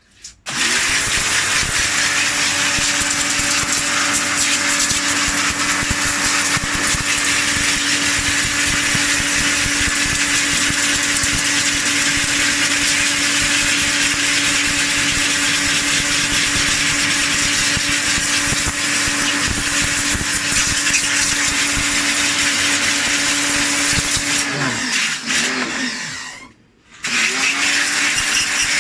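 A small electric motor starts, quickly comes up to speed and runs steadily with a strong hiss. Near the end it winds down, stops for a moment and starts up again.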